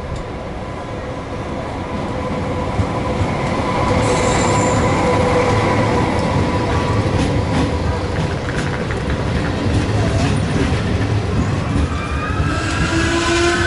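Passenger train coming into the station, its rumble growing louder over the first few seconds, with a steady whine and high brake squeal starting near the end.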